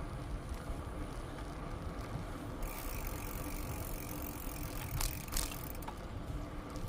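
Bicycle rolling along a trail, with a steady low rumble of tyres and wind. About two and a half seconds in, a high hiss comes in and stops about a second before the end, with two sharp clicks around five seconds in.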